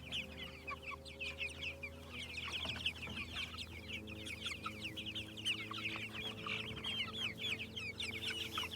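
A flock of 35-day-old meat chickens peeping and cheeping, many short high calls overlapping without a break.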